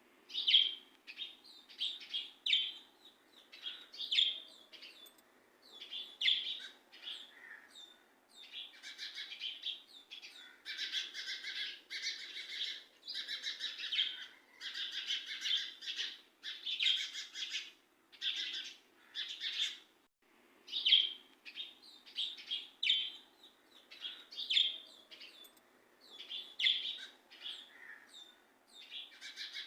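Small birds chirping: many short, repeated calls, thickening into a dense chorus of overlapping calls in the middle, breaking off briefly, then thinning out again.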